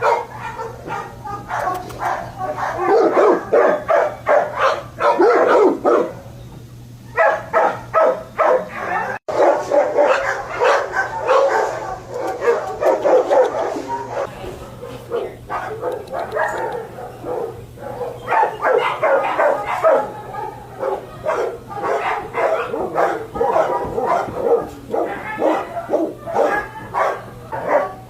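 Dogs barking and yelping in rapid, overlapping barks, with a short lull about six seconds in.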